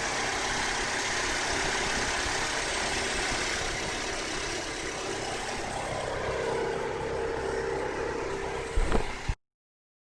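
Car engine running steadily under a broad rush of air. Near the end a short louder knock comes, then the sound cuts off abruptly to silence.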